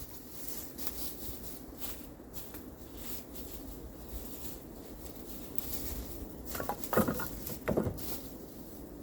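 Low steady background noise with faint scattered ticks, then two louder dull thumps about seven and eight seconds in. No chainsaw engine is running.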